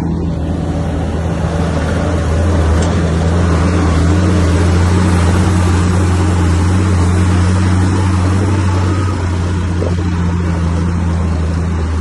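Bulldozer's diesel engine running in a steady low drone, growing a little louder about two seconds in and easing off again near nine seconds.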